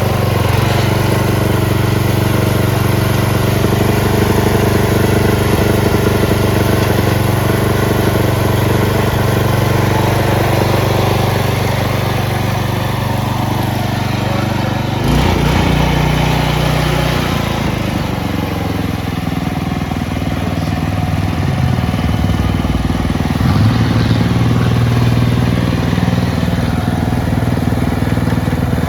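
Small engine of a Penncraft lawn tractor running steadily. Its speed shifts about halfway through and again a few seconds before the end.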